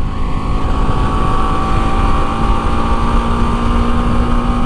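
BMW G310 GS's 313 cc single-cylinder, rearward-tilted engine running under way at a steady speed, a peculiar high-pitched note that the rider likens to a sewing machine, with heavy wind noise on the microphone.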